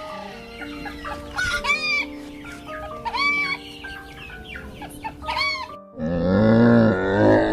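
Short, arched bird squawks repeated every second or two over background music, then from about six seconds in a loud, low, drawn-out animal grunt.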